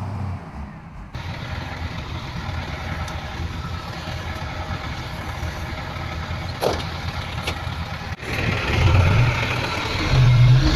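Heavy diesel earthmoving machinery running, with a low engine drone. The sound changes abruptly about a second in and again about eight seconds in, and the engine note grows louder near the end.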